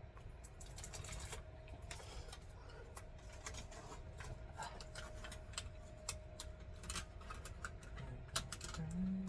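Irregular quick clicks and crackles of tape being handled and pressed into place on the A/C ducting, over a faint steady hum.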